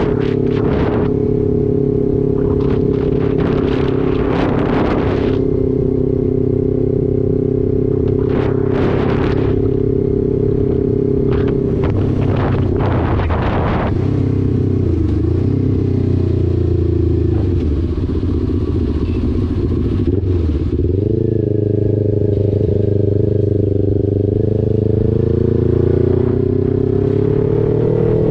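Motorcycle engine running at a steady cruise, then easing off and picking up again twice before rising in pitch as it accelerates near the end. Gusts of wind buffet the microphone in the first half.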